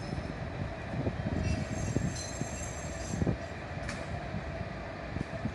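Low rolling rumble of a passing heavy vehicle, with a high-pitched metallic squeal from about one and a half to three seconds in and a short sharp click near the four-second mark.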